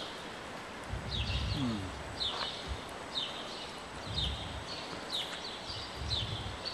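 Small birds chirping over and over, short falling chirps about two a second, over the low muffled thuds of horses' hooves walking on soft arena dirt.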